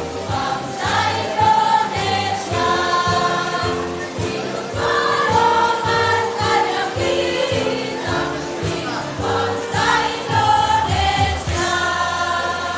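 Choir singing in parts over a rhythmic accompaniment, holding a sustained chord near the end.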